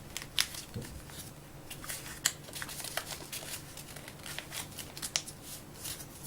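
A sheet of paper rustling and crackling with small, irregular crinkles as it is folded and creased by hand.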